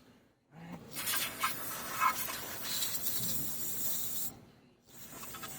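Aerosol degreaser spraying in a long burst of about four seconds, then a fainter burst starting near the end, used to flush out the fuel rail and injectors.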